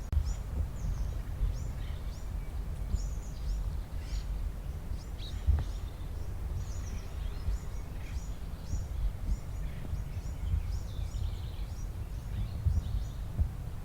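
Small birds chirping, many short repeated chirps, over a steady low background rumble.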